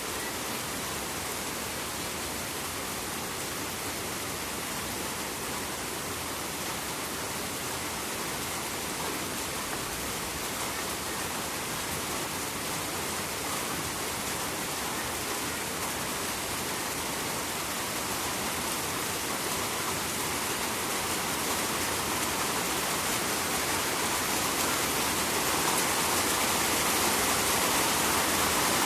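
Steady rain falling beside a river, an even rushing hiss of raindrops and running water that grows gradually louder over the second half.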